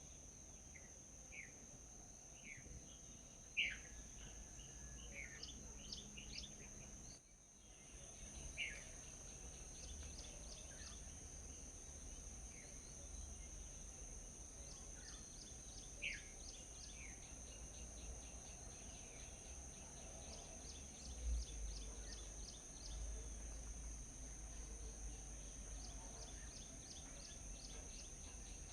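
Wild birds calling outdoors: scattered short calls that slide down in pitch, and here and there runs of quick high ticking notes. These sit over a steady high-pitched insect drone and a faint low rumble. The sound briefly cuts out about seven seconds in.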